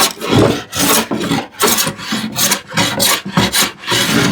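Hand plane cutting across a wooden panel in short, quick strokes, about two a second, each a brief rasping swish as it shaves the surface level.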